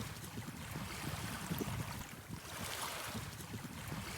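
Wind gusting across the microphone over a steady wash of water.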